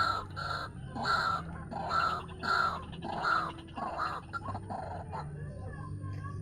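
White-breasted waterhen (ruak-ruak) calling: a run of loud, harsh, repeated notes, about two a second, that stops about four and a half seconds in, over a steady low hum.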